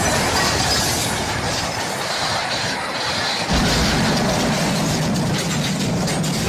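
Train running fast on the rails, a dense steady rumble and clatter. About three and a half seconds in it turns abruptly to a heavier, deeper rumble.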